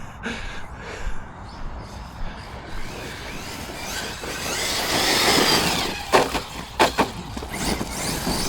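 Electric RC monster truck running across dirt, its motor whine rising and then falling as it passes over a few seconds in the middle. Three sharp knocks follow about six to seven seconds in.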